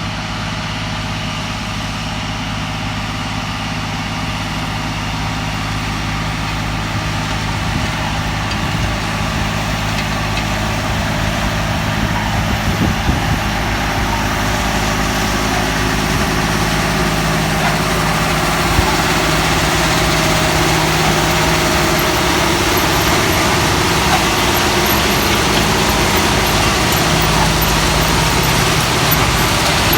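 A large engine running steadily, with a low hum of several steady tones under a broad rushing noise that slowly grows louder.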